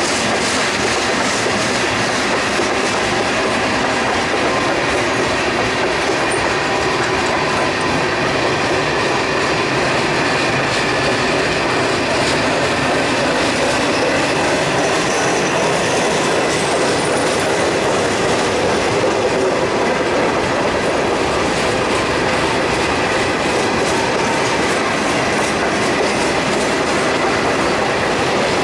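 Freight cars of a passing mixed freight train rolling by at a steady, loud level: wheels on rail with repeated clacking, and a faint steady squeal from the wheels on the curve.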